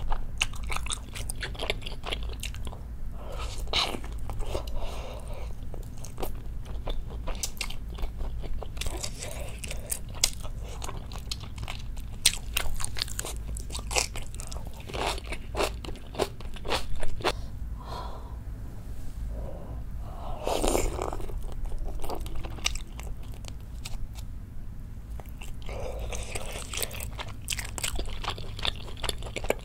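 Close-miked chewing and mouth sounds of a person eating spicy braised chicken stew with rice: a steady run of small moist clicks and smacks as she bites and chews.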